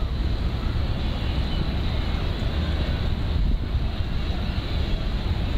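Wind buffeting the microphone, a constant rough rumble, with an RNLI lifeboat's motor running underneath.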